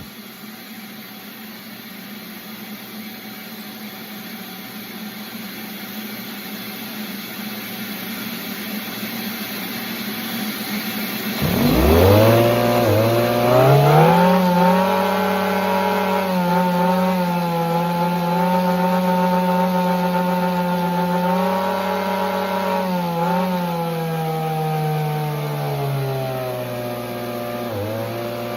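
Model supercharged turbine engine running: a rushing noise builds slowly, then about twelve seconds in a whine rises sharply in pitch and holds steady. Near the end it dips briefly and sinks lower in pitch.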